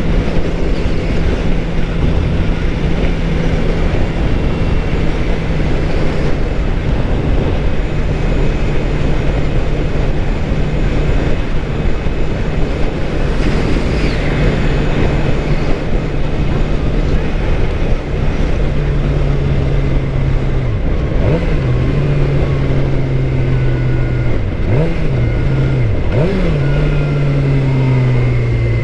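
2013 Suzuki GSX-R 600's inline-four engine running at a steady cruise under heavy wind noise. Past the middle its note drops, with a few quick rises and falls, and it sinks lower near the end.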